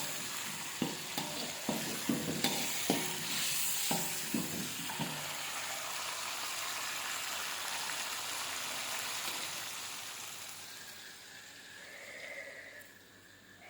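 Food frying in hot oil in a pan, with a spatula knocking and scraping in the pan during the first five seconds. The sizzle then runs on steadily and dies down from about ten seconds in.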